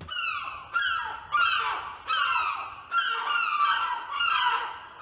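Birds calling over and over, in quick series of short calls that each fall in pitch, rising and fading in waves.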